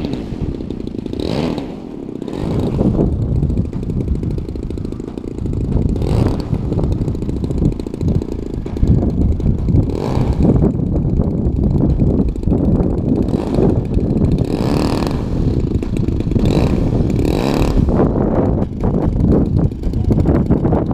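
Single-cylinder two-stroke gasoline engine (DLE 35) of a large radio-controlled Extra 260 aerobatic plane in flight, rising and falling every few seconds as the plane manoeuvres and passes, with wind buffeting the microphone underneath as a steady low rumble.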